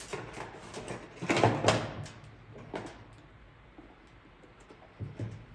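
Objects being handled and set down on a workbench: irregular knocks and rustling, with the loudest clatter about a second and a half in and a smaller knock near the end.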